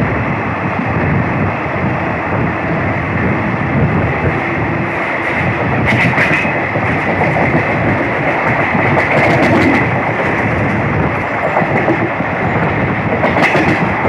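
Passenger train running, its wheels clattering over the rails with a steady rumble. A few sharper clanks stand out about six, nine and thirteen seconds in.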